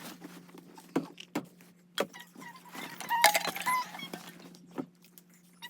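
Sped-up sound of children setting up blankets, stuffed toys and belongings: quick clatter, knocks and rustling, with brief squeaky, pitched-up voice fragments loudest a little past halfway, over a steady low hum.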